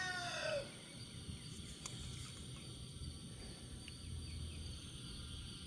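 The tail of a rooster's crow, falling in pitch and ending about half a second in, then quiet outdoor ambience with a steady high-pitched insect drone.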